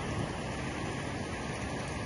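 Heavy rain pouring down steadily, a dense, even hiss of downpour on roofs.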